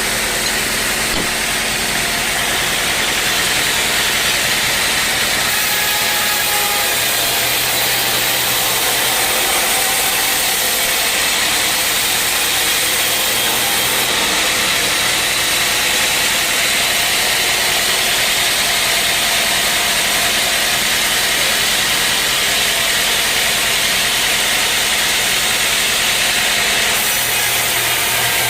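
Sawmill saw running steadily and cutting through wood, with a constant engine-like hum.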